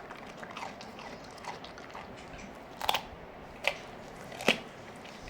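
A dog chewing and crunching food, with scattered small crunches and three sharp, loud crunches in the second half.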